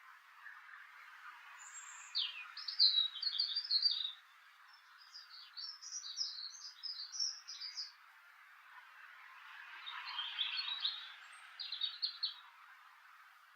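Songbird singing in four short bursts of quick, high twittering notes, about two seconds in, around six seconds in, and twice near the end, over a steady background hiss.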